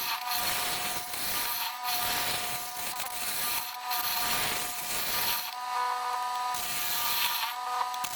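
Wood lathe spinning a yellow cedar and walnut bowl blank while a carbide-tipped turning tool cuts it. A steady motor hum runs under the hiss of the cut, which comes in passes broken by short pauses.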